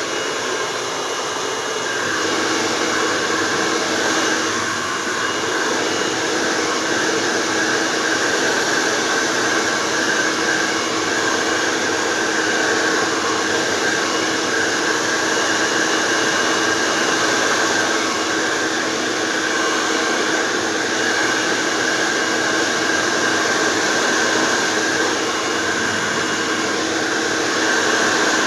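Handheld hair dryer running continuously, a steady blowing whoosh with a faint motor whine, apart from small swells in level.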